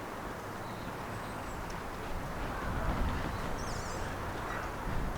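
Outdoor ambience: a steady low rumble with a few scattered bird chirps, including a short quick trill of them about three and a half seconds in.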